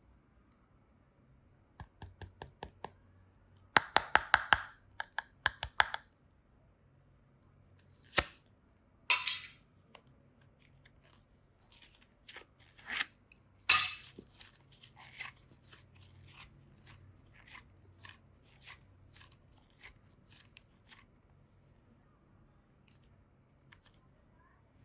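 Modelling clay and slime being cut and handled: sharp clicks and snips in quick clusters, loudest a few seconds in, then a run of small, lighter ticks that die away near the end.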